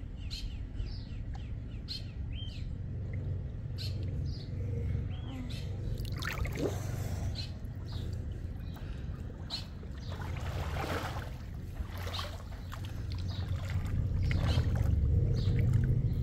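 Small birds chirping in short repeated calls over a low, steady rumble that grows louder near the end.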